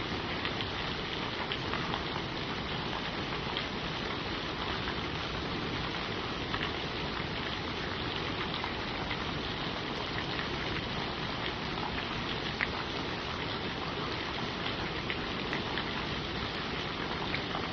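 Steady rain falling on leaves, an even hiss with many small drop ticks scattered through it.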